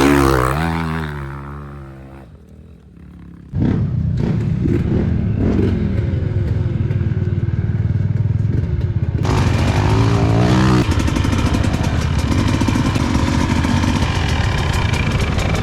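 Off-road motorcycle engine revving, fading away over the first couple of seconds. About three and a half seconds in, a close motorcycle engine comes in abruptly, running and revving up and down, with some clattering.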